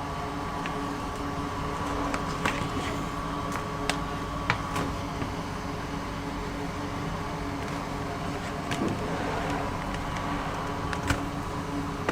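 Steady mechanical hum, like a fan or air conditioner, with a few light clicks and taps scattered through it, the loudest a little over 4 s in and about 11 s in.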